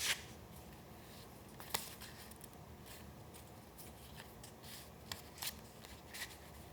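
Paper being handled during collage work: a handful of short, crisp paper sounds spread apart, the first the loudest.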